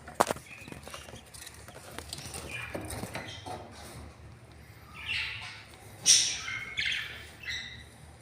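Budgerigars chirping in a nest: a sharp click just after the start, then a run of loud, short, harsh calls close together in the second half.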